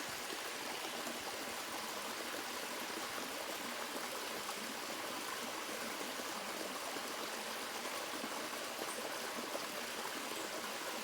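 A small river waterfall and stream, water running and splashing steadily.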